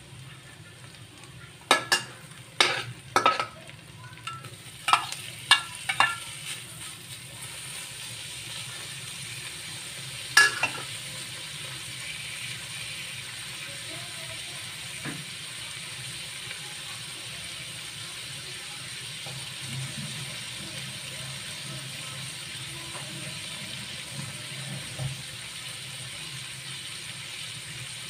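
Food frying in oil in a stainless steel wok, with a spatula clacking against the pan several times in the first few seconds and once more about ten seconds in. The sizzle grows louder after about seven seconds as sliced meat goes into the pan, then holds steady.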